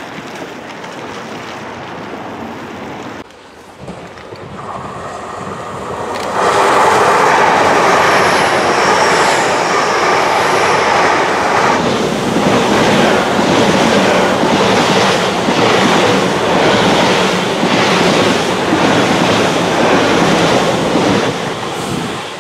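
A Great Western Railway Class 800 IET passing close at speed: a loud, sustained rush of train noise that swells up about six seconds in and holds for some fifteen seconds. Through its second half the wheels click over the rail joints in a steady rhythm.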